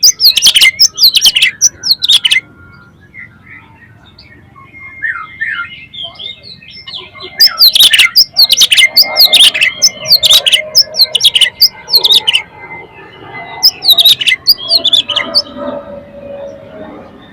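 Oriental magpie-robin (kacer) singing loud bouts of rapid, sharp, high notes: a burst at the start, a longer run from about seven seconds in, and a short one near fourteen seconds, with fainter chirps in between.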